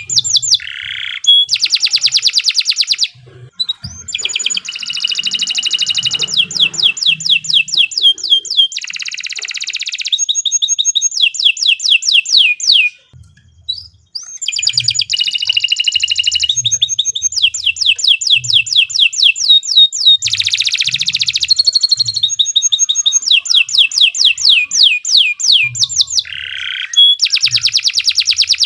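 Domestic canary singing a long song of rapid trills and fast repeated chirping notes, pausing briefly twice.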